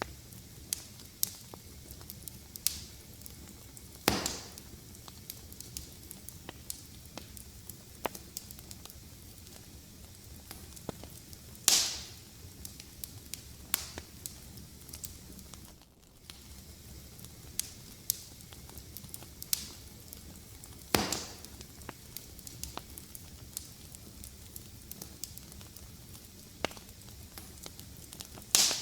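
Wood fire crackling: a low steady rush of flames with frequent small snaps and a few louder pops.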